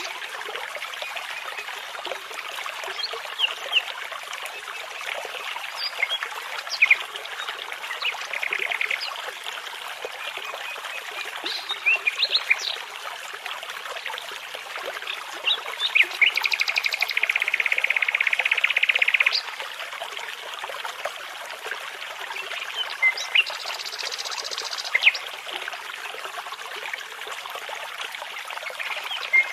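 A brook babbling steadily, with songbirds singing over it: scattered chirps and whistles, and a loud rapid trill lasting about three seconds a little past the middle.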